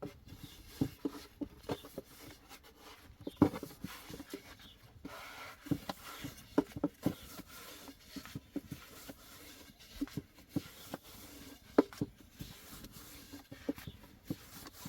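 Irregular soft knocks and taps, sometimes two or three a second, with faint rubbing between them; two of the knocks, about three and a half seconds in and near twelve seconds, stand out as the loudest.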